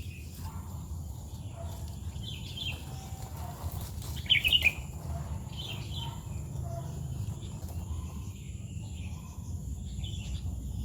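Birds chirping in short, scattered calls, with one louder call a little after four seconds in, over a steady low rumble.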